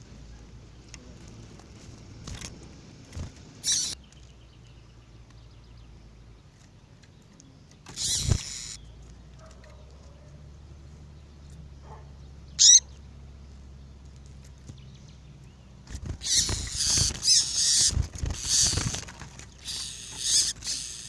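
Female double-collared seedeater (coleiro) making scattered short, sharp call notes with rustling in the cage, over a low steady hum; the sounds come thickest and loudest near the end.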